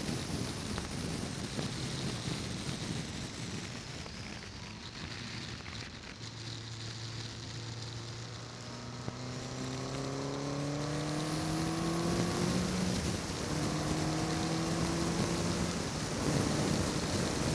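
Westfield's Ford Zetec four-cylinder engine heard from the open cockpit at speed under heavy wind rush. The engine note comes through about six seconds in and climbs steadily under acceleration, drops sharply at a gear change around two-thirds through, then climbs again.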